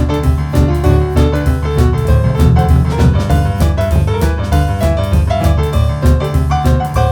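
Live boogie-woogie band music led by piano, with a heavy, steadily pulsing bass line underneath and regular drum hits.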